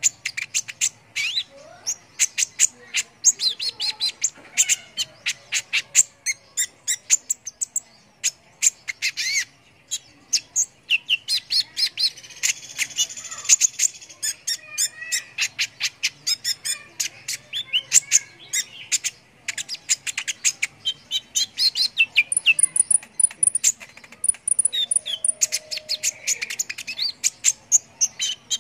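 Kolibri ninja (little spiderhunter) singing: a fast, continuous run of sharp, high chirps and short trills with brief pauses.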